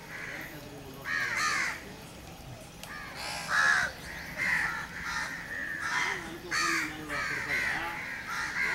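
Birds calling: a run of short, harsh caws, one about every second or faster, sometimes overlapping.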